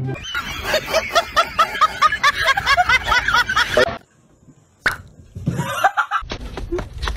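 A person laughing hard in rapid, high-pitched bursts, about four a second, which cut off abruptly after about four seconds. After a brief hush come a sharp click and a short voice sound.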